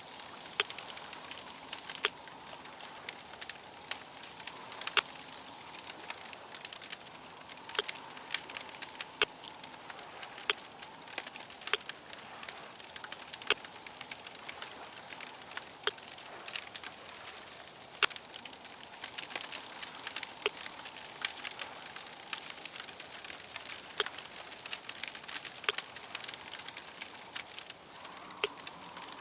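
Crackling fire: a steady hiss with frequent sharp, irregular pops and snaps.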